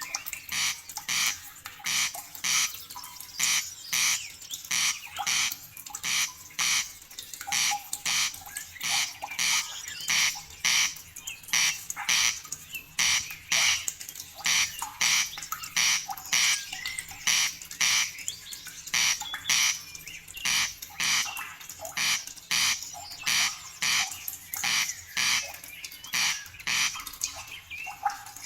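A bird calling over and over in short, evenly spaced calls, about two a second, keeping a steady rhythm throughout.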